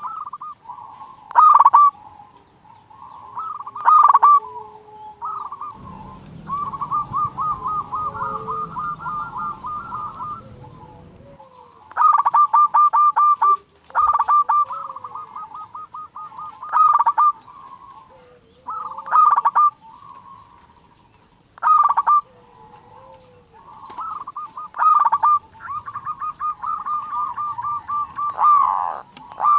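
Zebra dove (perkutut) cooing: repeated short bouts of rapid, rippling coos, with one longer trilling run from about six to eleven seconds in.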